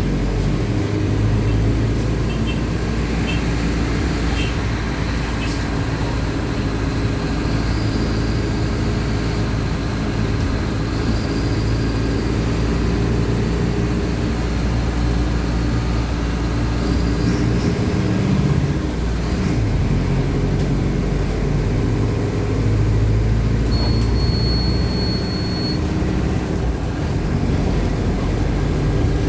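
Mercedes-Benz OF-1519 BlueTec 5 bus's diesel engine running as the bus drives, its note rising and falling with speed. A short high beep is heard about 24 seconds in, lasting about two seconds.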